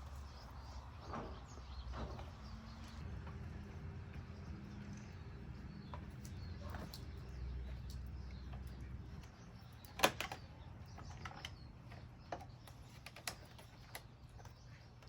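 Handling noise of an electrical cord being tucked behind a bird bath and wound around a garden hose: scattered rustles and small clicks, with a sharp knock about ten seconds in. Faint bird chirps and a low rumble sit in the background.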